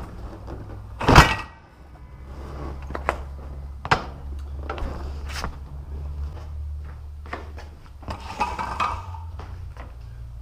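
A loud clunk about a second in as a Honda Gold Wing is rocked forward off its center stand on a motorcycle dolly, dropping onto its wheels, followed by lighter knocks and clicks.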